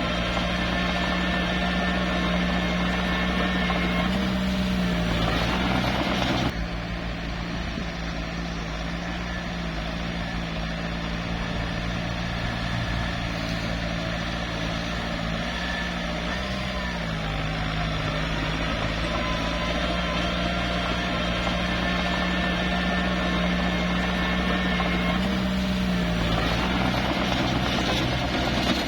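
Small bulldozer's diesel engine running steadily, its pitch rising briefly about three times. The engine drops suddenly to a quieter, muddier sound about a quarter of the way through.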